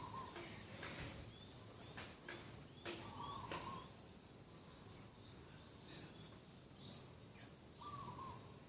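Birds calling in the morning: many short high chirps, with a lower call three times and a few sharp clicks.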